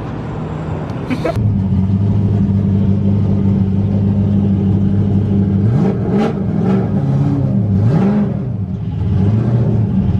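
Nissan S14's engine running steadily under way, with the revs rising and falling a few times past the middle. A sharp click comes about a second in, just before the engine grows louder.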